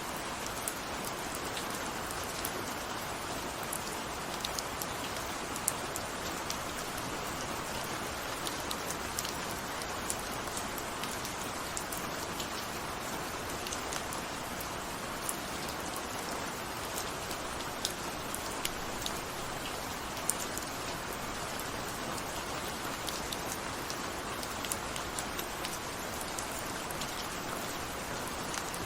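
Steady rain falling, an even rush with many small drops ticking on a surface throughout.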